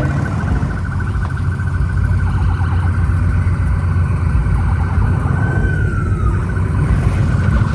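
An emergency siren sounds over a heavy low rumble, pulsing rapidly on a steady high note, with one falling sweep a little past the middle.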